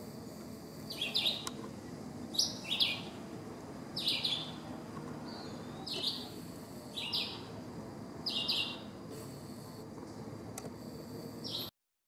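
A songbird giving short, sharp chirps, about seven of them at uneven gaps of one to two seconds, which then stop for the last few seconds.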